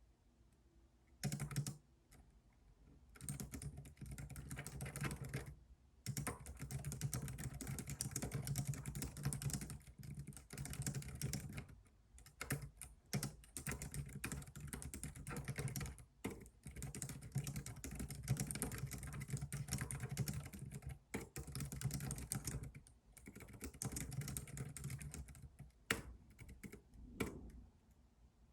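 Computer keyboard typing: fast runs of keystrokes broken by short pauses, beginning about a second in.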